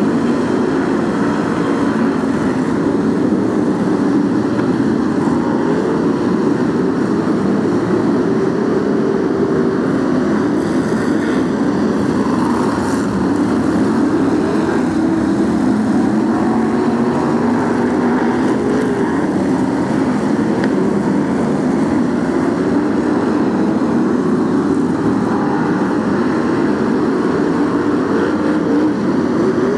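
A pack of BriSCA F1 stock cars racing, their V8 engines running loud and unbroken, several engine notes overlapping and rising and falling as the cars circle the track.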